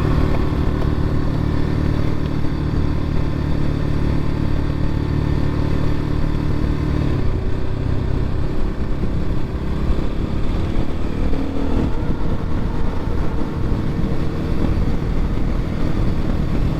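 X-Pro Templar X 250 dirt bike engine running steadily while riding along a dirt road. Its note shifts about seven seconds in and again near twelve seconds.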